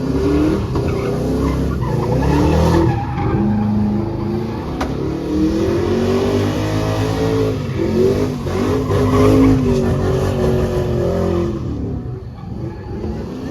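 A truck engine revving hard, its pitch rising and falling again and again, with tires squealing and skidding on pavement.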